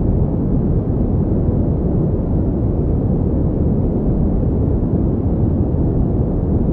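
Synthetic pink noise playing continuously: an even, unchanging rush weighted toward the low end.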